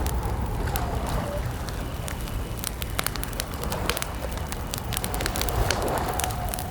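Campfire crackling: frequent sharp snaps and pops of burning wood over a low rumble of the flames. A bird's drawn-out gliding call sounds faintly behind it near the start and again near the end.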